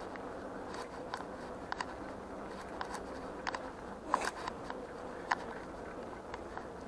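A bicycle rolling along: steady tyre and road noise with irregular sharp clicks and rattles, a cluster of them about four seconds in.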